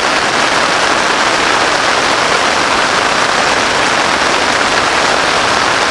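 Loud, steady rain falling on a fabric tarp overhead.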